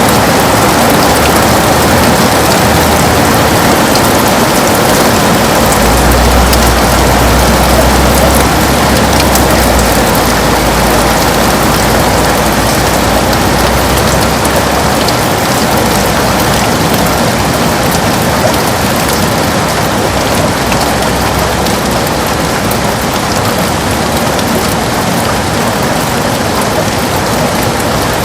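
Heavy rain pelting a window in a dense, steady patter, with a low rumble underneath from about six to fifteen seconds in.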